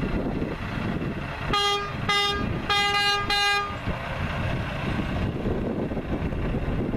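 Truck horn honking four short times in quick succession, each blast one steady pitch, over the low running of the truck's engine: the departing car-hauler signalling goodbye as it pulls out.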